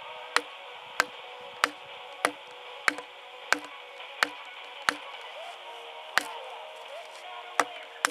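A blade chopping into wood: sharp, evenly spaced strikes about one and a half a second, with a couple of short breaks and a quicker pair near the end.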